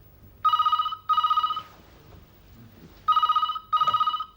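Telephone ringing with the British double-ring cadence: two pairs of short rings, "brr-brr", about two and a half seconds apart.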